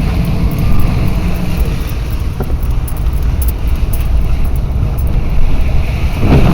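Car driving slowly, heard from inside: a steady low rumble of engine and tyres.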